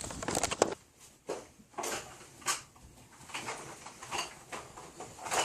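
Rummaging through a drawer: a string of clicks, knocks and short rustles as small objects are pushed about.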